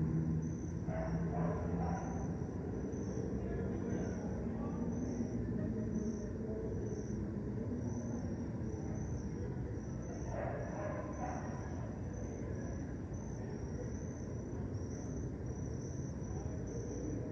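A cricket chirping steadily, about two high-pitched chirps a second, over a steady low rumble of distant city traffic.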